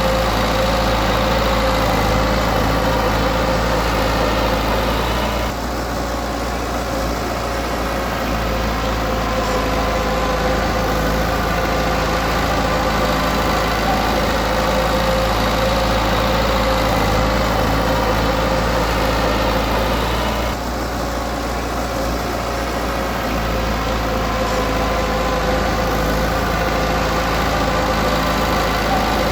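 Komatsu D20P bulldozer's diesel engine running steadily, its sound dipping briefly twice, about fifteen seconds apart.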